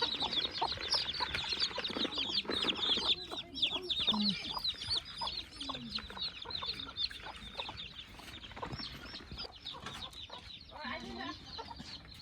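Chickens clucking and cheeping: many short, high calls in quick succession, thickest in the first few seconds and thinning out after.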